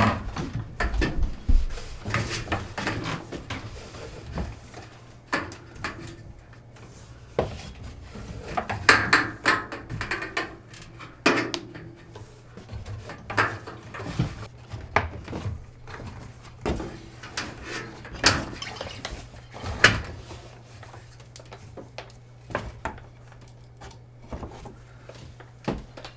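Scattered knocks, clicks and rubbing from PEX tubing being worked and bent through wooden wall framing, over a steady low hum.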